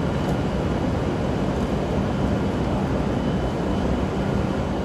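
Steady rushing hum of a Hokuriku Shinkansen E7/W7-series train close by at a station platform, with a faint steady high tone.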